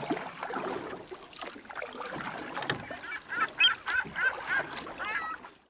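Birds calling: a quick run of short, repeated calls in the second half, over a busy, noisy background with one sharp click a little before the middle.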